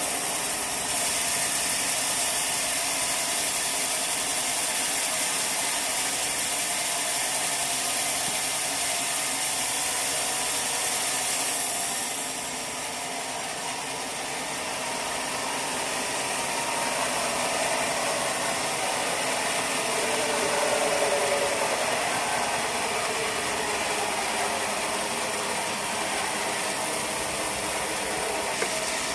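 Sawmill machinery running steadily with a mechanical, rattling clatter. About twelve seconds in the high hiss drops off, and later a tone wavers in pitch for a few seconds.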